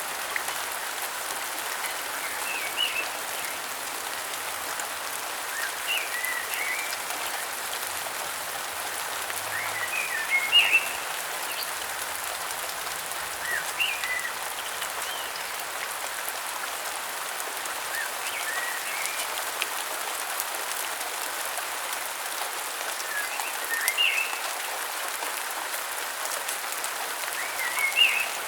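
Steady rain falling, with a bird calling over it in short clusters of quick chirps every few seconds.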